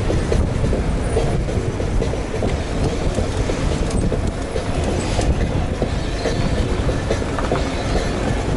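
Steady rumble and light rattling of a bicycle being ridden, with wind noise on the rider's camera microphone.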